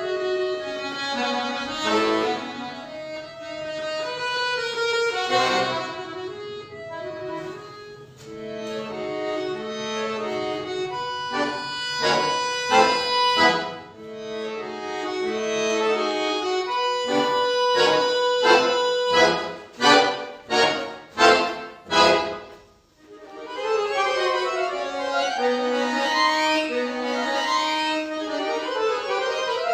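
Solo accordion (bayan) playing sustained chords under a moving melody, then about five short, sharp repeated chords about two-thirds of the way through, a brief break, and the sustained playing resumes.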